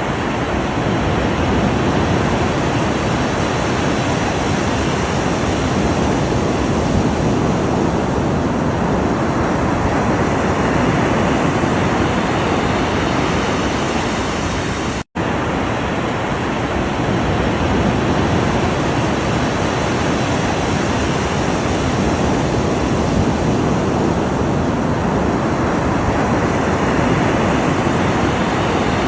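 Ocean waves breaking on a shore, a continuous rush of surf that swells and eases slowly, with a momentary cut to silence about halfway through.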